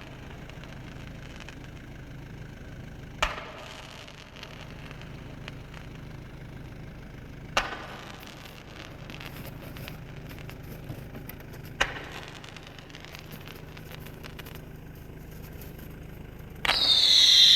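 Fireworks going off: three sharp bangs several seconds apart, over the steady hum of an idling vehicle engine. Near the end a loud whistling sound sets in, falling slightly in pitch.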